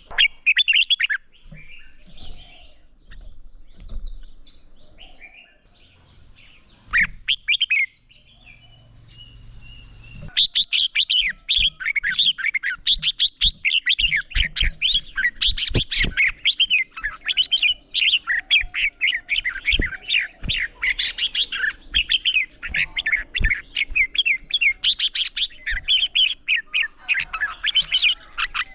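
Red-whiskered bulbuls singing in rapid, chattering phrases. The song comes in scattered bursts for the first ten seconds or so, then runs on almost without a break.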